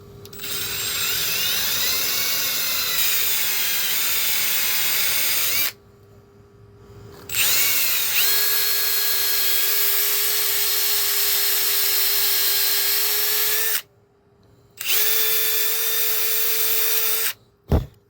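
Power drill with a step bit boring out a stub of 3/4-inch PVC pipe, running in three spells: a long one, a second long one after a short pause, then a shorter one. Each spell starts with the whine gliding in pitch as the drill comes up to speed.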